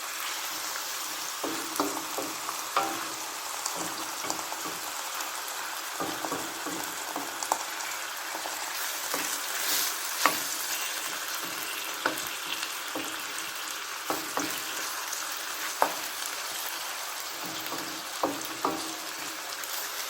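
Chicken frying in a pan with onions and garlic: a steady sizzling hiss, with scattered clicks and taps of a utensil stirring against the pan.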